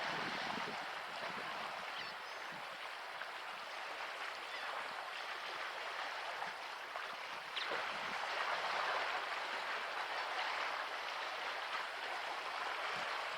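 Water washing and lapping in a steady rush, a little louder in the second half.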